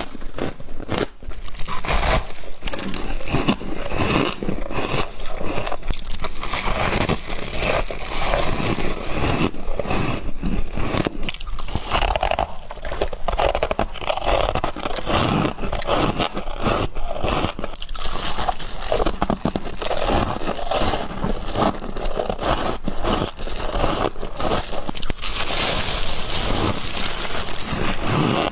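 Close-up crunching of frost as it is bitten and chewed, a dense run of crisp crackles and scrapes without a break, with stretches of hissy scraping near the middle and toward the end.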